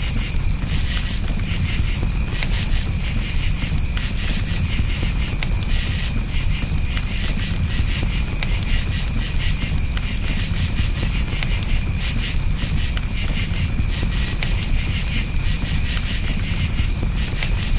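Crickets chirping in fast, steady pulses over a crackling campfire, with scattered small pops and a low rumble from the fire.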